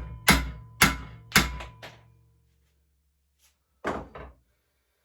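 Hammer blows on bent steel of a pit bike frame, straightening it: sharp strikes about two a second, each leaving a metallic ring, the last one about two seconds in, followed by two lighter knocks near the end.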